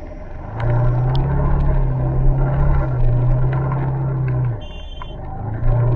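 Motorcycle engine running steadily under way, with wind rushing on the microphone. About four and a half seconds in the engine note drops away for about a second, as when the throttle is eased, then picks up again; a short high beep sounds during the lull.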